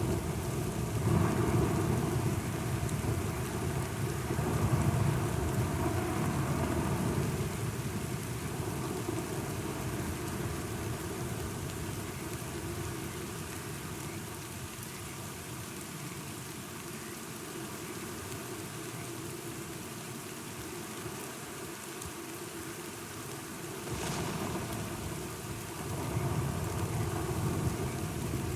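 Steady rain with rolling thunder: long low rumbles swell in the first several seconds and again near the end, with a sharper crack just before the second rumble.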